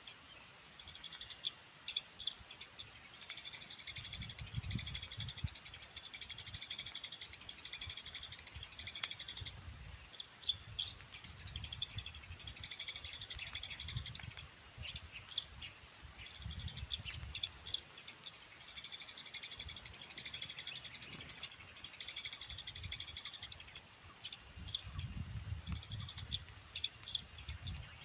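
Eurasian tree sparrows chirping in short repeated notes over a steady, high-pitched outdoor chorus that swells and fades every few seconds, with low rumbles coming and going.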